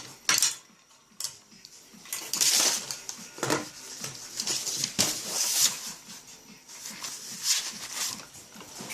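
Plastic pens clicking, clattering and rustling as they are handled and knocked about, in several short bursts with quieter gaps between.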